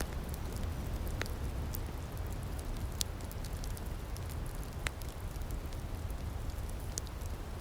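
Outdoor wood fire in a firepit crackling, with a few sharp pops standing out over a steady low rumble and a fine hiss.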